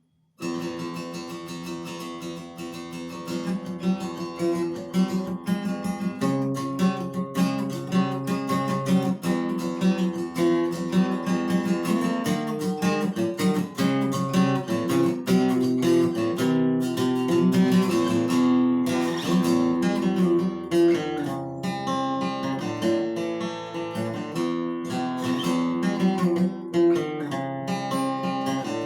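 Acoustic guitar playing an instrumental intro, chords strummed and picked, starting about half a second in.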